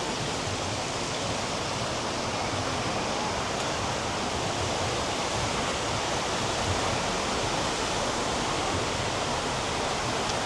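Tegenungan Waterfall: a steady rush of falling water.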